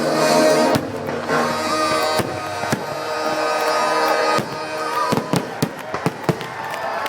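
Fireworks display finale: fireworks bursting with crackling and a quick run of sharp bangs in the second half, over music playing.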